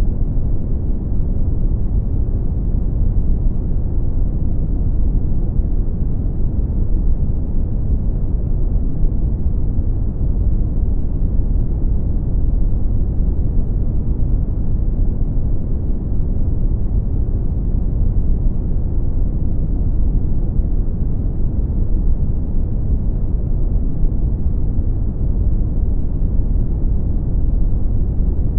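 Brown noise: a steady, deep rumbling hiss, loudest in the bass and fading out towards the treble, unchanging throughout.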